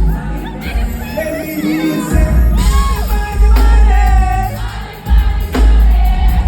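Live concert music: a loud band with heavy bass and singing voices, the crowd singing along.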